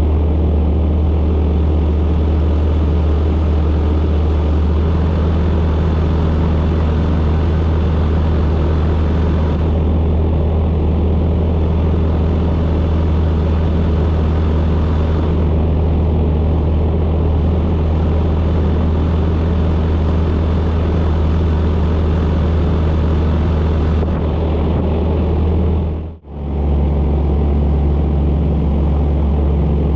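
Boat engine running at a steady speed under way, a loud, even low drone, with a brief drop-out about twenty-six seconds in.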